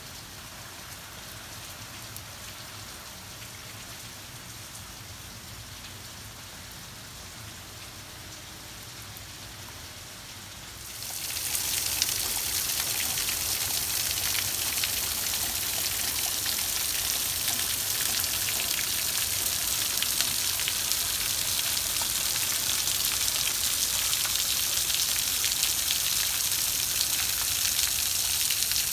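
Steady rain falling on a concrete patio and lawn, muffled at first through a screen door. About eleven seconds in it turns suddenly much louder and brighter, with rainwater pouring off the edge of the roof.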